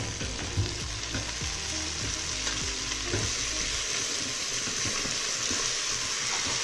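Chopped tomatoes and fried onions sizzling in oil in the steel inner pot of a Greek Robocook electric pressure cooker on sauté, stirred with a spatula that scrapes and knocks against the pot. A sharp knock sounds right at the start.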